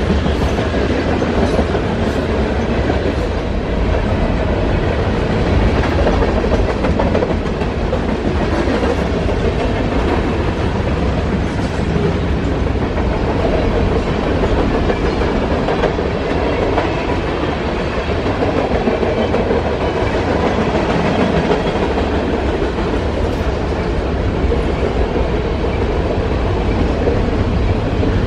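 Freight cars of a mixed manifest train rolling past: a loud, steady rumble of steel wheels on the rails with clacking over the rail joints.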